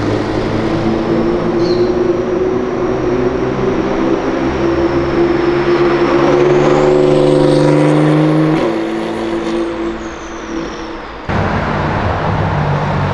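Porsche 911 Carrera passing slowly with a high turbo whistle that rises and then falls over the steady engine note. About 11 s in, the sound cuts to another car's lower engine note.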